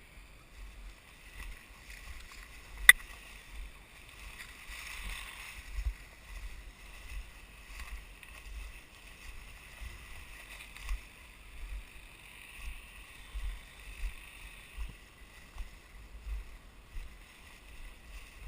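Footsteps of a person walking through forest undergrowth: irregular low footfall thumps about once or twice a second, with rustling. One sharp click comes about three seconds in.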